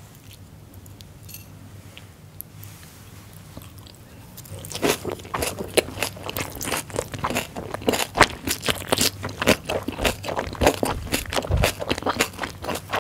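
Close-miked chewing of a bite of fermented skate, boiled pork and aged kimchi (hongeo samhap). A few faint clicks are followed, about four and a half seconds in, by rapid, continuous crunching.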